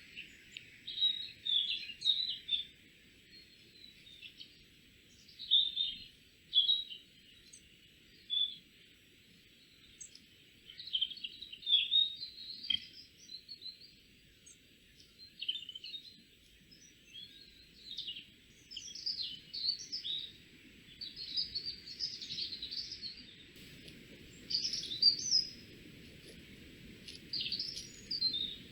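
Small woodland songbirds chirping and singing in short, repeated phrases, over a steady faint background hiss.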